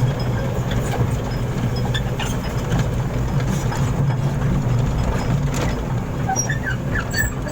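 Truck engine idling steadily, a low hum with a few faint clicks over it.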